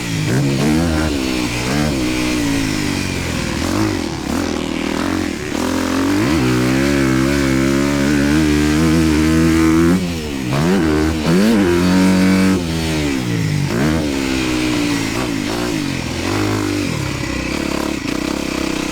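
Dirt bike engine revving up and falling back repeatedly as it is ridden around a motocross track, the throttle shut off briefly about ten seconds in and again a couple of seconds later.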